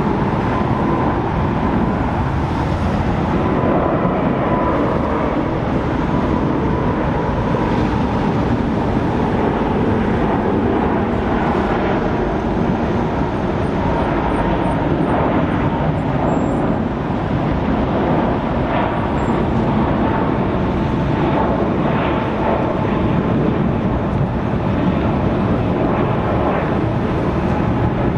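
Airbus A380 four-engine jet airliner climbing out after takeoff, its engines giving a loud, steady roar with a faint whine that slowly drops in pitch as it passes.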